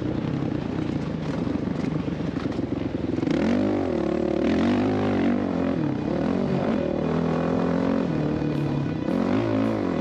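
Motocross dirt bike engine revving as it is ridden, its pitch rising and falling again and again with throttle and gear changes.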